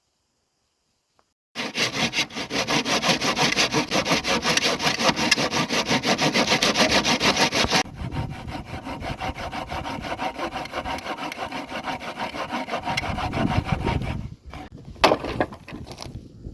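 Hand saw cutting through wood in quick, even back-and-forth strokes, starting abruptly a second and a half in. The sawing is loud at first and turns softer about halfway through. A few separate knocks follow near the end.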